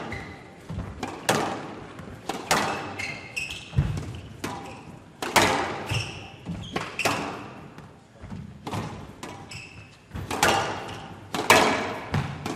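Squash rally in play: the ball is struck by rackets and smacks off the court walls, giving a sharp crack about once a second, each with a short ring.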